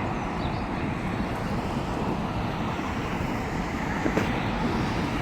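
Steady jet engine noise from a widebody airliner on approach to land, with a brief click about four seconds in.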